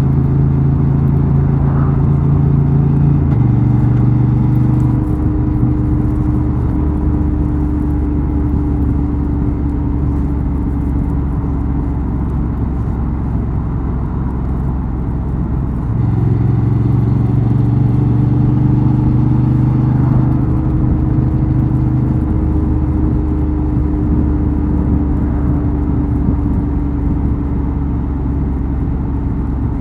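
2024 Honda XL750 Transalp's 755 cc parallel-twin engine and exhaust running under way, the engine note stepping down in pitch a few seconds in, pulling louder again about halfway through, and dropping once more later on.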